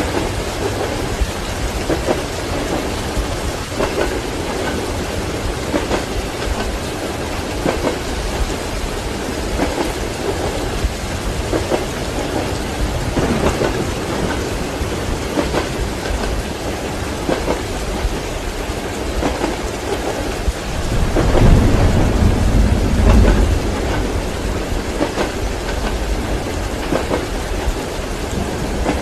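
Steady heavy rain during a thunderstorm. About two-thirds of the way through, a long low thunder rumble swells up and then dies back.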